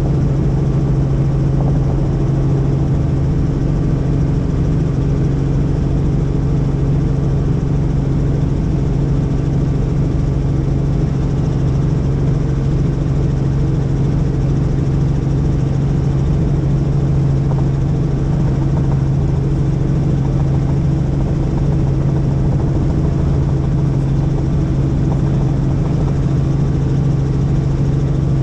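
Helicopter in flight, its engine and rotor running steadily with a strong, constant low hum.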